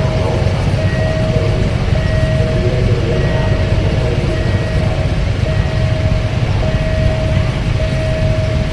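Train passing over a level crossing: a loud, steady rumble, over which a single-pitched warning tone sounds continuously with short breaks about once a second.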